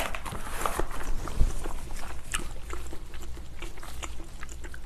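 Chewing and wet mouth smacking on spicy braised ox foot, a run of short sticky clicks.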